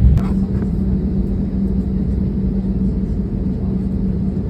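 Airbus A320neo cabin noise on the ground after landing: a steady low rumble with a constant hum, and a sharp click about a quarter second in.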